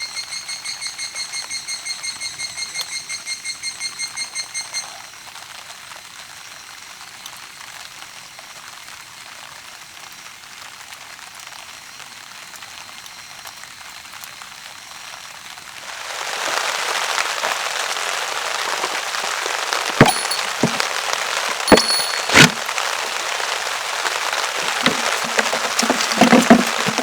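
Rapid high electronic alarm beeping, about five beeps a second, which stops about five seconds in. Then a soft rain hiss that, about sixteen seconds in, turns into a louder steady rush, broken by a few sharp cracks and knocks.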